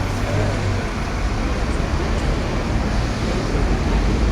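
A vehicle engine running steadily, with a low hum over general traffic noise.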